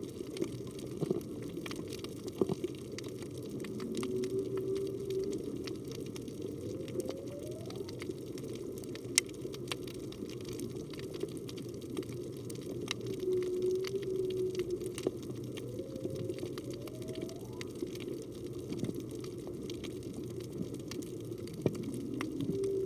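Humpback whale song heard underwater: a repeating phrase of rising moans and held mid-pitched tones that comes round about every eight to nine seconds, three times. Under it run a steady water hiss and scattered sharp clicks.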